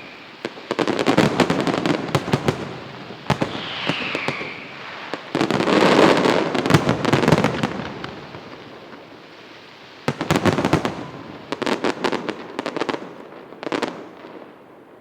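Fireworks finale: rapid volleys of aerial shell bursts with dense crackling, and a falling whistle about four seconds in. The loudest barrage comes around six seconds in, and the volleys thin out and fade near the end.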